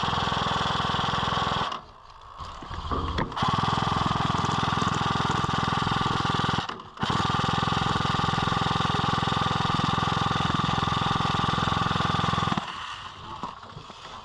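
Airsoft electric light machine gun firing long full-auto bursts: a fast steady rattle with the gearbox motor's whine. It breaks off about two seconds in, fires a short burst, runs again, pauses briefly near seven seconds, then fires on until shortly before the end.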